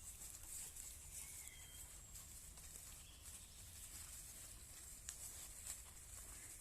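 Quiet forest ambience, near silence: a faint steady hiss with a low rumble, a couple of faint chirps about one and a half seconds in, and a few soft ticks near the end.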